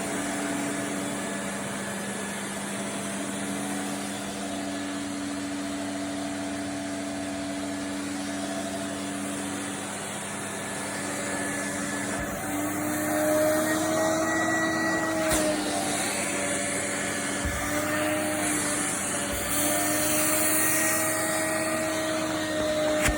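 Vacuum cleaner motor running steadily with a hum and a rushing hiss of air. Its pitch wavers slightly and it grows a little louder and brighter in the second half.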